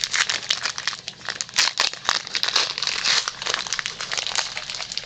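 Plastic trading-card pack wrapper crinkling and rustling in the hands as it is torn open, in quick irregular crackles.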